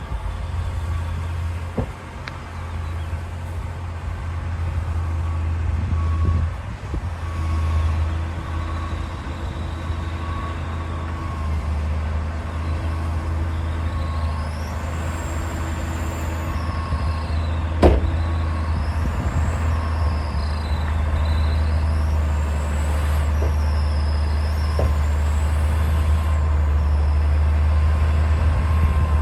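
Komatsu D60 bulldozer's diesel engine running steadily, with a sharp metal knock about 18 seconds in and a few lighter clanks. High squeals rise and fall through the second half.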